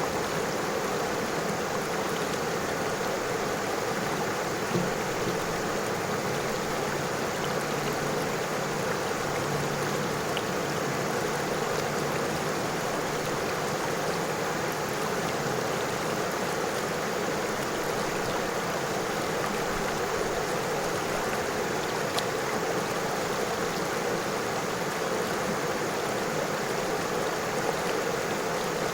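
A river flowing steadily over stones, a continuous rushing and babbling of water.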